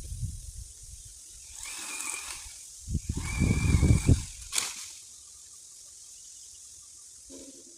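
Strong wind buffeting the microphone in gusts, the heaviest about three to four seconds in. Two short high-pitched whines come about two and three and a half seconds in, and a sharp click follows just after.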